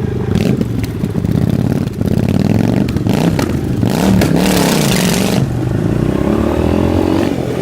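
Motorcycle engine revving up and down while riding, with clattering knocks. A loud rushing noise comes in about four seconds in and stops a second or so later.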